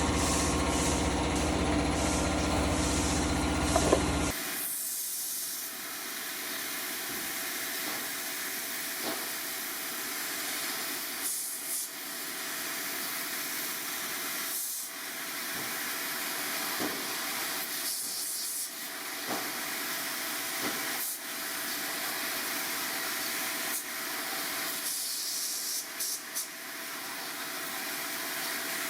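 A vehicle engine idling for the first four seconds, then an abrupt change to a steady spray hiss that breaks off briefly every few seconds, as cleaner or air is sprayed in short bursts during an air-conditioning cleaning.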